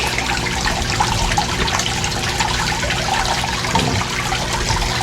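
Water trickling and splashing steadily into a koi pond, with a faint steady hum underneath.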